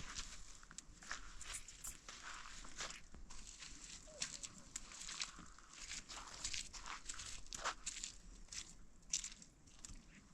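Irregular crunching and crackling, several short sounds a second.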